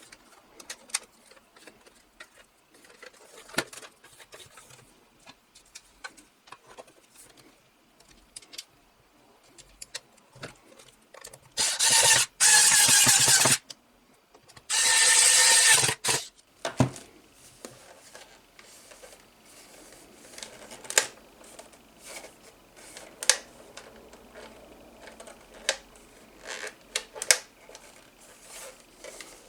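Scattered small clicks and taps, like small plastic and metal parts being handled and fitted together, broken about twelve and fifteen seconds in by two loud hissing bursts of about two seconds each.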